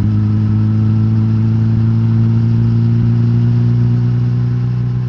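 Suzuki GSX-S1000GT's inline-four engine (GSX-R1000 K5-derived, de-catted with the stock exhaust) running at a steady, even note with no change in pitch.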